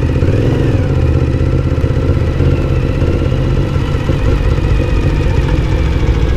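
Motorcycle engine running steadily at low, even speed while riding.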